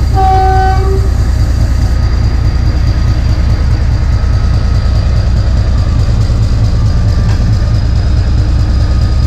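Narrow gauge diesel locomotive sounding one short horn toot right at the start, then a steady low rumble of the train running.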